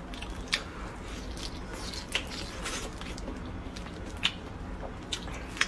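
Mouth sounds of someone biting and chewing a pan-fried chicken cutlet: scattered small clicks over a faint steady background.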